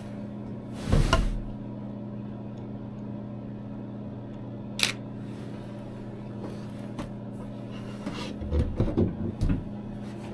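Steady hum of a heater running in the bird blind, with a knock about a second in, one sharp click near five seconds, and a run of knocks and handling noises near the end.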